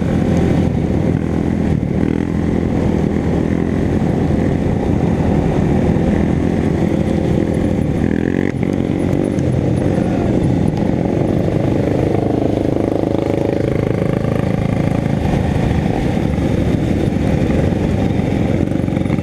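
Motorcycle engine running continuously while riding, its pitch shifting gently with the throttle.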